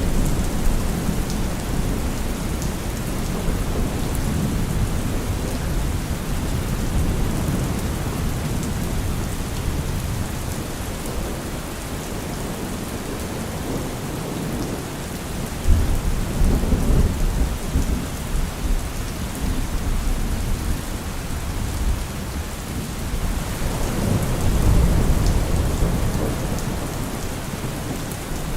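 Steady rain falling, with thunder rumbling underneath: a sudden crack about halfway through that rolls on for several seconds, and another low swell of thunder near the end.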